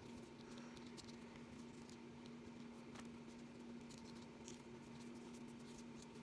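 Faint scattered clicks and light scraping from capsicums being cut and seeded by hand on a board, over a steady low hum.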